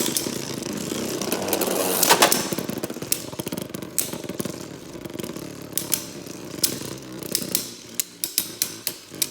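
Two 3D-printed Beyblade Burst tops spinning and clashing in a plastic stadium: a dense whirring scrape full of rapid sharp clicks from repeated hits, with a harder impact about two seconds in. The clicks thin out to separate knocks over the last couple of seconds.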